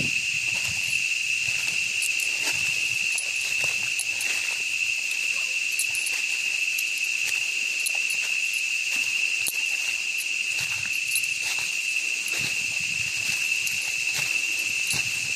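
A steady, unbroken high-pitched insect drone from the forest, with irregular footsteps crunching in leaf litter now and then.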